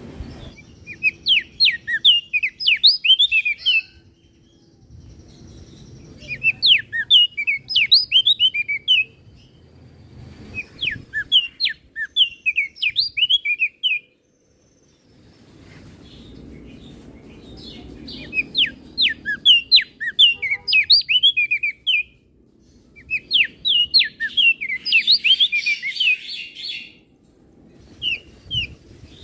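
Crested darkeye (opior jambul) singing in phrases of rapid, high, falling chirps, each phrase two to three seconds long, with short pauses between them; a new phrase starts near the end.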